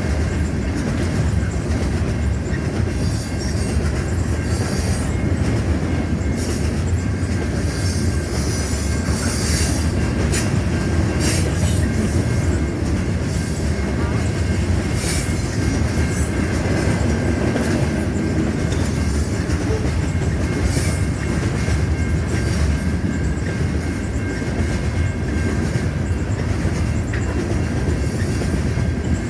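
Covered hopper cars of a freight train rolling past at steady speed: a continuous low rumble of steel wheels on rail with irregular clacks over the joints and a thin, steady wheel squeal.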